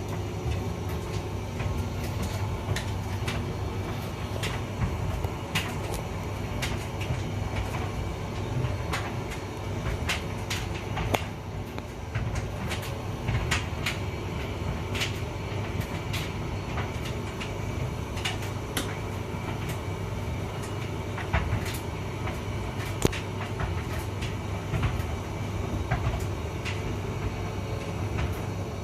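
Hotpoint vented tumble dryer running: a steady motor and drum hum with irregular light knocks and clicks from the load tumbling in the drum.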